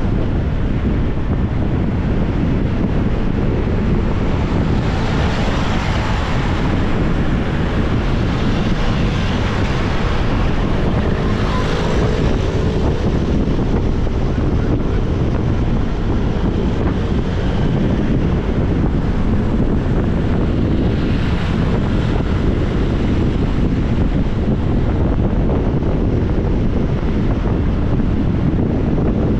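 Wind buffeting the microphone of a moving motorbike, with the noise of the ride and traffic underneath. The hiss swells a few times, around 5, 11 and 21 seconds in.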